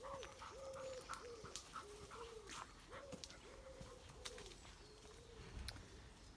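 A pigeon cooing faintly, a run of soft repeated coos that each rise and fall, with a few faint clicks and snaps of twigs underfoot.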